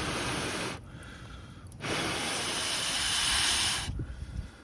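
Handheld butane mini torch hissing in two bursts: one lasting about three-quarters of a second, then, after a short break, one of about two seconds. It is being played onto the firewood to get the fire to catch.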